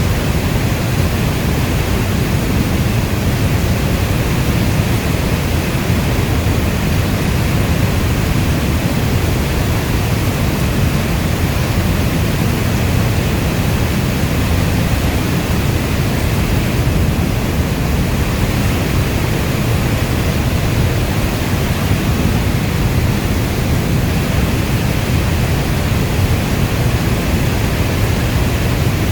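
Steady rainstorm: a dense, even hiss of heavy rain with most of its weight in the low end, with no separate drops, thunder or changes standing out.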